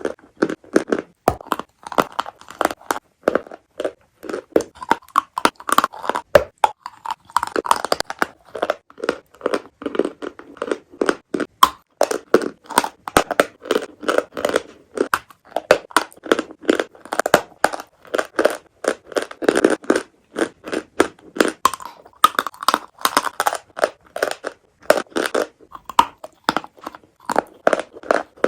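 Someone biting and chewing pieces of eating chalk and clay up close. It is a dense, irregular run of sharp, crackly crunches with hardly a pause.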